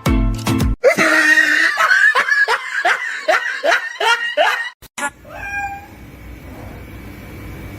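A cat meowing over and over, about two calls a second, for some four seconds, then stopping. A snatch of music ends under a second in.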